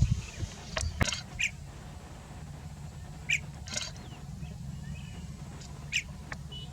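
Blue-tailed bee-eaters giving short, scattered chirping calls, about six in all, over a low steady rumble.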